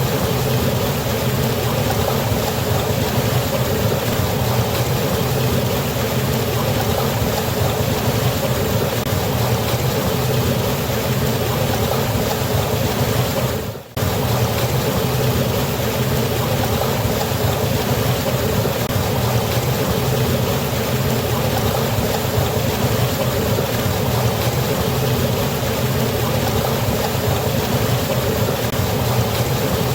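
Steady rushing of a waterfall's falling water, which dips briefly about halfway through.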